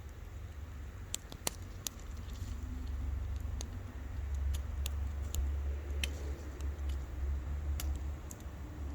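Wood fire crackling: irregular sharp pops and snaps, a few a second, over a steady low rumble that grows louder about halfway through.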